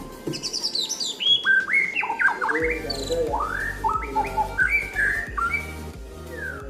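White-rumped shama (murai batu) singing: a fast, varied run of clear whistled notes, rising and falling glides and high chirps.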